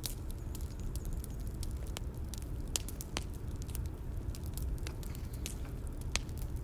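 Bonfire crackling: irregular sharp pops and snaps over a steady low rumble of burning wood.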